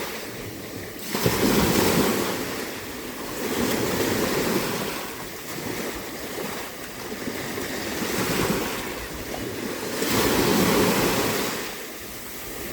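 Small, calm sea waves washing in, in a rushing sound that swells and fades every few seconds. The loudest surges come about a second in and again near the end.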